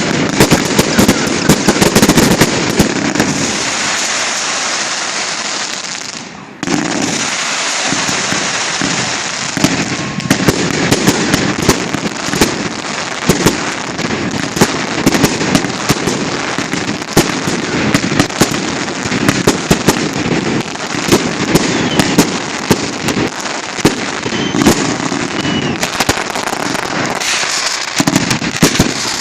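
Fireworks display: dense, continuous crackling and popping with many sharp bangs of shells bursting. About six seconds in the sound dips briefly, then comes back at full strength.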